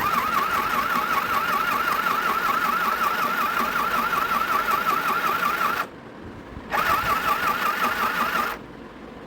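Electric mini sewing machine running as it stitches cloth: a motor whine that wavers with each needle stroke, about six times a second. It runs for about six seconds, stops briefly, then runs again for about two seconds.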